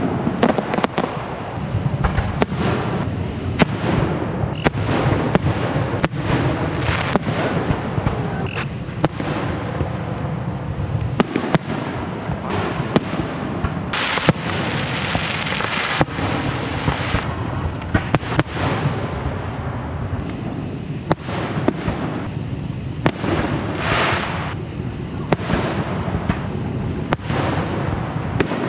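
Fireworks going off: many sharp bangs and pops in irregular succession, with denser crackling bursts about halfway through and again near the end.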